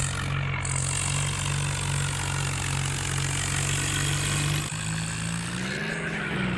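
Tractor engine running steadily, then about five seconds in its pitch shifts, rising and dipping as the engine speed changes.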